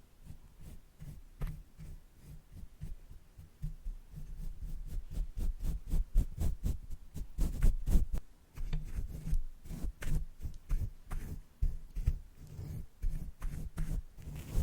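Makeup brushes tapping and brushing on a microphone: a dense run of quick, irregular strokes, each with a deep thud. The strokes get louder and busier from about four seconds in.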